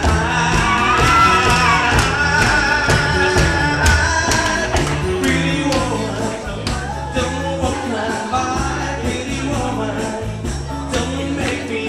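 Live band music with a steady drum beat, playing on between sung lines of a pop-rock song, with a held melodic lead line that bends in pitch near the start.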